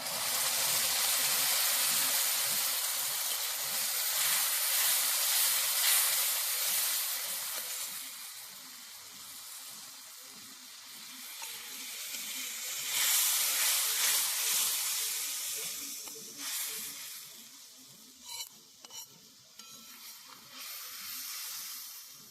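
Spices and aromatics (onion, garlic, ginger paste, turmeric) sizzling in a hot pan as they are stirred. The sizzle swells twice, easing off in between and fading near the end, with a few sharp clicks toward the close.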